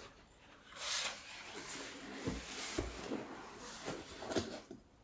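Rustling and rubbing from handling a boxed monitor and its packaging, with a couple of soft knocks about halfway through.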